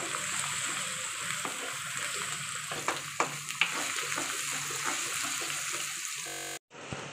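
Fried onions and ginger-garlic paste sizzling in oil in a metal kadai, stirred with a wooden spatula, which knocks sharply against the pan a few times around the middle. The sound breaks off for a moment near the end.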